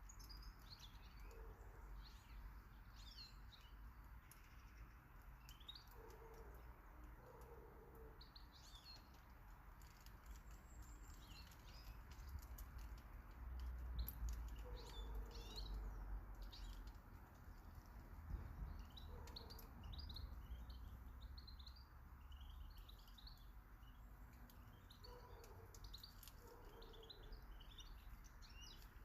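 Small garden birds chirping and calling faintly, many short high notes scattered throughout, with a low rumble swelling around the middle.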